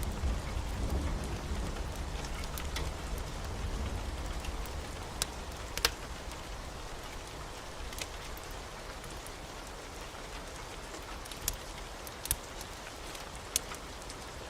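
Steady heavy rain, with a low rumble of thunder that fades away over the first few seconds. A few sharp clicks stand out now and then.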